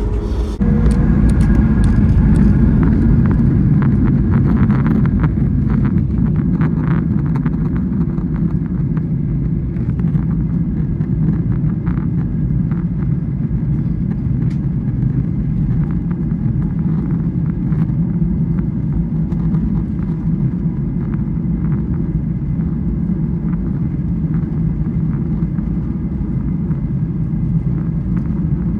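Airliner cabin noise during the takeoff roll: the jet engines running at takeoff thrust as a loud, steady low rumble, with knocks and rattles over the first several seconds that thin out into a smoother rumble.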